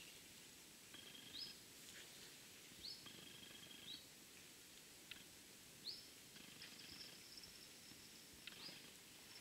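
Faint bird calls: short high rising notes about once a second, some followed by a brief held thin tone, over a low outdoor hush.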